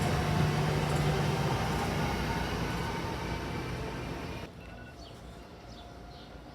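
Train passing close by, a loud steady rush and rumble that fades slightly, then cuts off abruptly about four and a half seconds in. What follows is a much quieter background with a few short high chirps.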